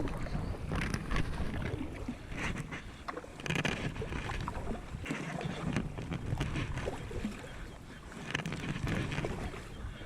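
Kayak paddling: irregular bursts of paddle splashing and scratchy rubbing about every second or two, over a low rumble of handling noise on the camera. The scratching is the lifejacket rubbing against the GoPro.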